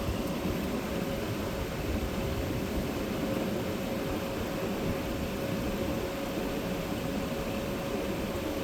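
1985 White Westinghouse 5900 BTU air conditioner running, its fan blowing with a steady rush and a steady hum over it, the rotary compressor running quietly.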